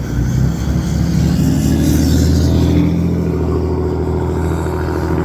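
A motor vehicle's engine passing close by on the road, with a low, steady engine note and tyre hiss that is loudest about two seconds in.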